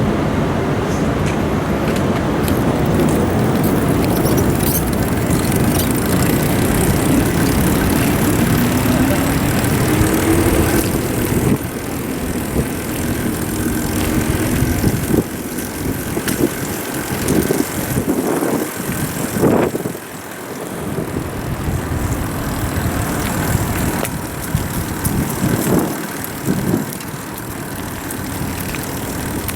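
Vehicle traffic on a city street, with one engine's pitch rising steadily about eight to eleven seconds in, over a low uneven rumble.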